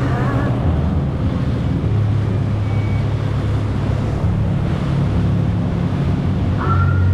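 Jet ski engine running steadily under way, with water rushing and wind buffeting the microphone.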